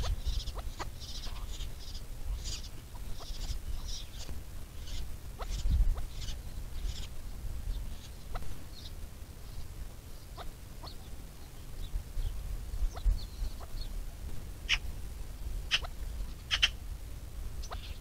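Birds calling at a waterhole: a quick run of short high chirps over the first several seconds, then scattered notes, and a few sharp louder calls near the end, over a low rumble.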